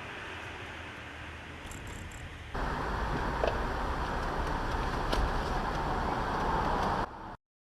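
Steady road and engine noise of a car driving, picked up by a dash camera. About two and a half seconds in it cuts abruptly to a louder stretch of road noise with a few faint ticks, and near the end it cuts off to silence.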